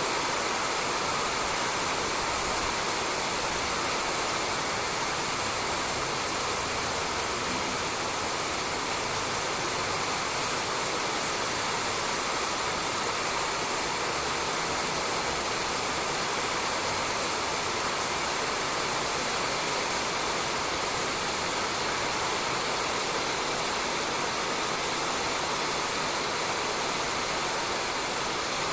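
Steady rain falling on a roof, an even hiss that holds without change.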